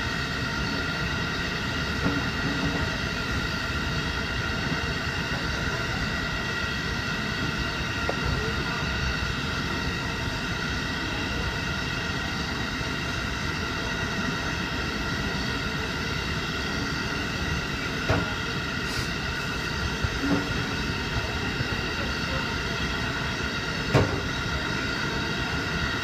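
JR Hokkaido 711 series electric train running at speed, heard from on board: a steady running noise with several high held tones whining over it. A few sharp knocks come from the wheels and rails, the loudest near the end.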